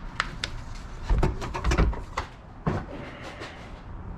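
A run of knocks and clicks from parts being handled and set down, with two heavier thumps about a second in and just before two seconds in.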